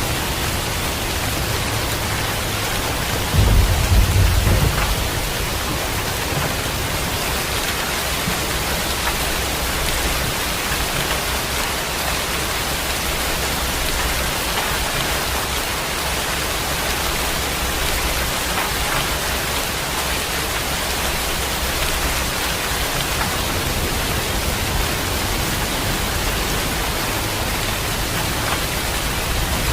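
Heavy rain falling steadily, with a short low rumble of thunder about three and a half seconds in.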